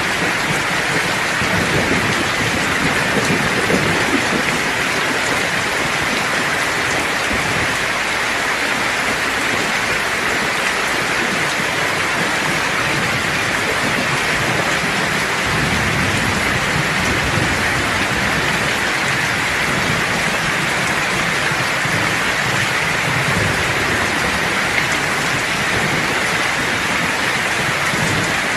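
Steady rain pouring, a dense even hiss, with low rumbles of distant thunder rising under it a few seconds in and again around the middle.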